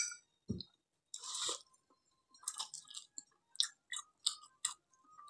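Person chewing a mouthful of fried instant noodles close to the microphone: quiet, moist chewing sounds with a run of short soft clicks in the second half.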